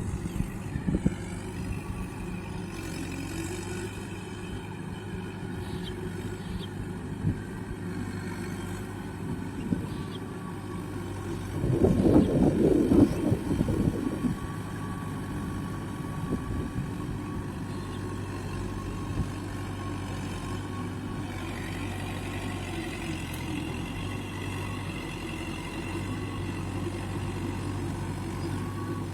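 Mahindra tractor's diesel engine running steadily, with a louder, rough stretch lasting about two seconds around twelve seconds in.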